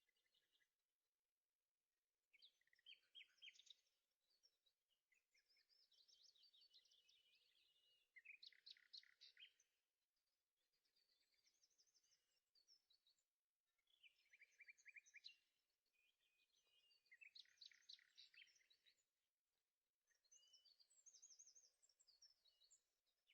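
Faint birdsong: a songbird sings short, high trilled phrases one after another, each lasting a second or two, with brief pauses between them.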